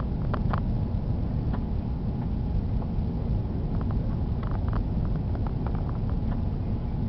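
Airbus A330 cabin noise on approach: a steady low rumble of airflow and engines, with light, scattered clicks and rattles.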